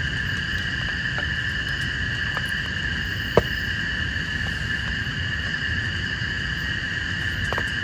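Steady rain in rain forest, with scattered drops striking close by, one sharper hit about three and a half seconds in, over a continuous high-pitched insect chorus.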